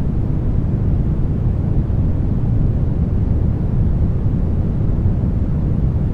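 Steady brown noise: an even, deep rumbling hiss with most of its weight in the low end and no pitch or rhythm.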